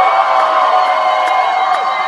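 Crowd of fans screaming and cheering, many high voices overlapping into a continuous loud din.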